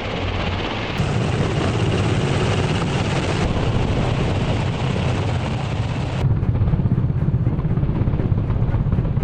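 Military rotorcraft running close by: a rapid low rotor chop over a loud, steady rush of engine and rotor-wash noise. The sound shifts abruptly about one, three and a half and six seconds in, as the footage cuts between shots.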